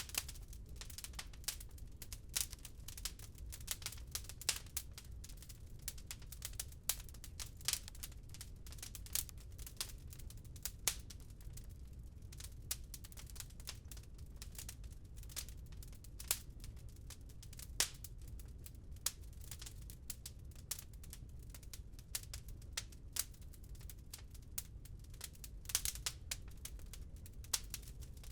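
Wood fire crackling, with irregular sharp pops several times a second, over a steady low rumble of rain.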